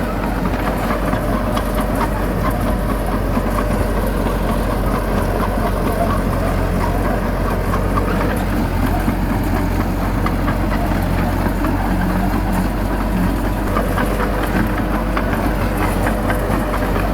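Heavy diesel engine of earthmoving machinery running steadily, with light clattering over a constant low drone.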